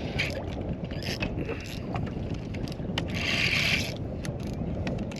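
Wind buffeting the microphone with a steady low rumble, broken by scattered short ticks and a louder hiss about three seconds in.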